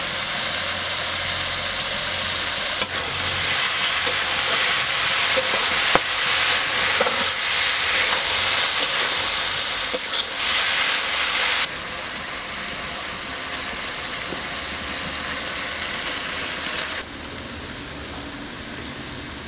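Meat pieces sizzling as they stir-fry in a steel wok, with a metal spatula scraping and knocking against the pan a few times. The sizzle drops abruptly in level about twelve seconds in and again near the end.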